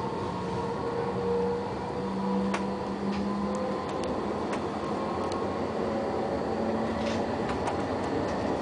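Tram running on its rails: a steady rumble with a low humming tone from the drive and a few light clicks.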